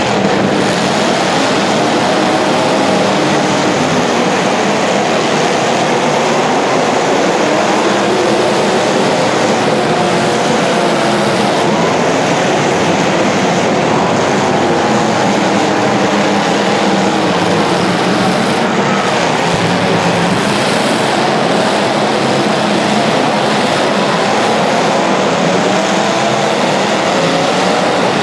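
Several racing engines running together, their pitches rising and falling as they speed up and slow down, with no break in the noise.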